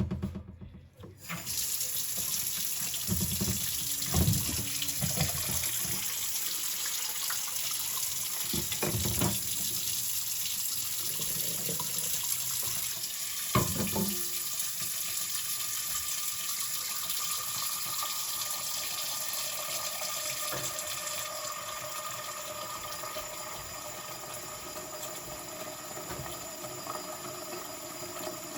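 Kitchen tap running steadily into the sink. Around a glass casserole dish being washed, dishes knock against the sink a few times in the first half.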